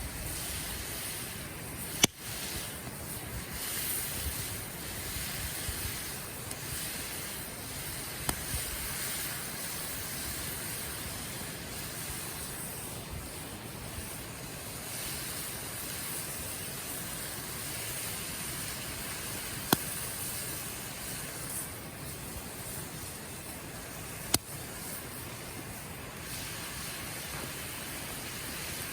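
Wood campfire burning with a steady hiss and a few sharp, widely spaced crackling pops.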